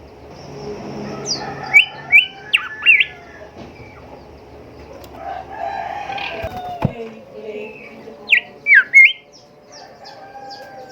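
Golden whistler singing: loud whistled notes with quick rising and falling sweeps, one group about two seconds in and another near the end. Between them a lower, rougher call sits in the background, and faint rapid ticking comes in near the end.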